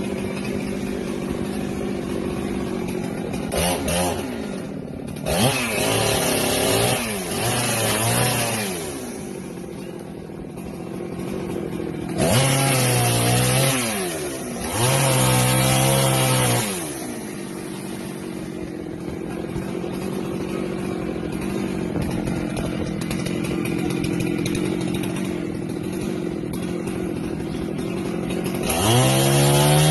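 Husqvarna 390XP two-stroke chainsaw running at idle and revved up to full throttle about five times, each burst rising in pitch, held for a second or three, then dropping back to idle.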